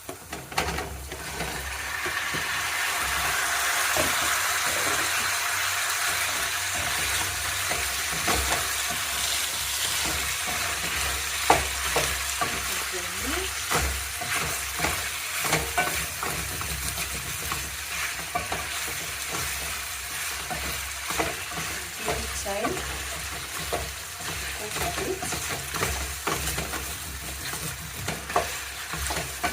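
Chicken pieces sizzling as they fry in a hot pot with onions, garlic and ginger, while a spoon stirs and knocks against the pot. The sizzle swells over the first few seconds after the meat goes in, then holds steady, with frequent clicks from the stirring.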